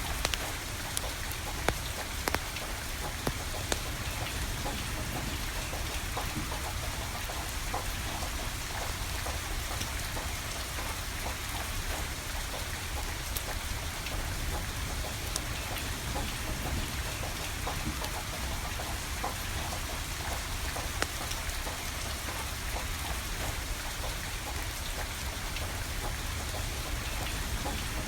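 Steady rain falling, mixed with a burning wood fire, with scattered sharp crackles and pops throughout.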